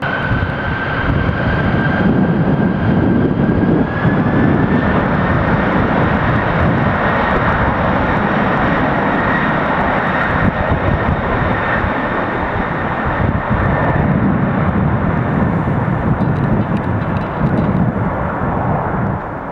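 Boeing 747-400's four jet engines running at high power, a loud steady roar with a fan whine that climbs in pitch over the first four seconds and then holds, as when the engines spool up for takeoff.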